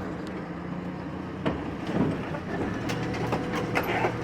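Telehandler's diesel engine running steadily, with a sharp clank about a second and a half in and a string of metal clicks and knocks near the end as it works at the truck's cab.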